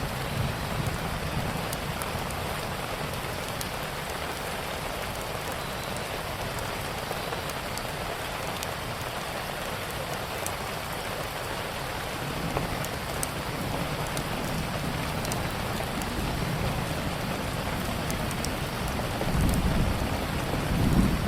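Steady rain falling, with sparse sharp crackles of a wood fire over it. A low rumble swells near the end.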